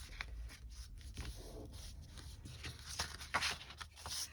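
Paper and card being handled on a desk: light rustling with a few small taps and clicks.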